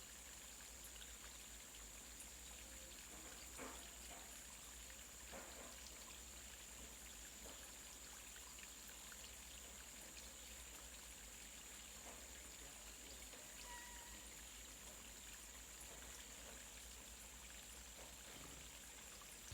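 Near silence: a faint steady hiss with a thin high whine, broken by a few faint ticks and one brief faint tone about two-thirds of the way through.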